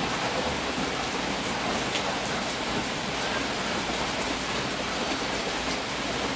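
Steady rain falling: a dense, even hiss with fine ticks of individual drops striking surfaces.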